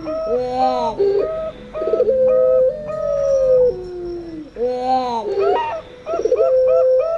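Zebra dove (perkutut) cooing a quick run of short notes, about four a second, over the long drawn-out, falling coo of a puter pelung turtle dove; the pair of calls repeats about every four seconds.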